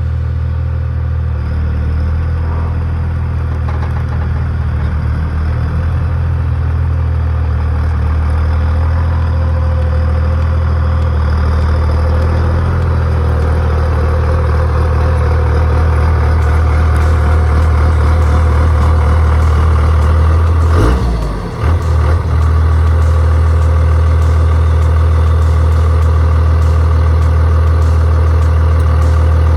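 Skid steer's diesel engine running steadily at high speed, with a brief dip in its note about two-thirds of the way through before it settles back.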